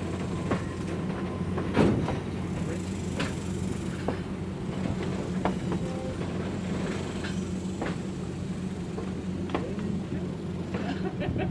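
Passenger train backing slowly behind an Alco RSD-15 diesel locomotive: a steady low diesel hum with sharp clanks and knocks every second or two, the loudest about two seconds in.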